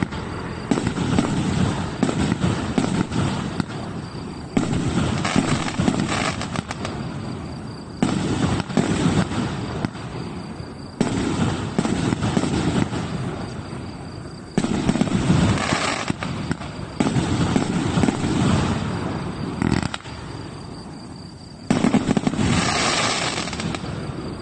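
A 1.5-inch, 100-shot fireworks cake firing: dense bangs and crackling bursts, with a fresh loud surge every three seconds or so that fades before the next.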